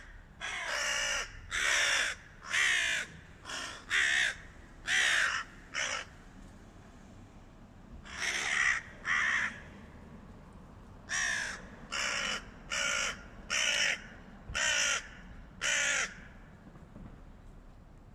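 Hooded crows giving harsh, repeated caws at a stray cat, in three bouts: a quick run of about eight caws, then two, then about six more before they stop.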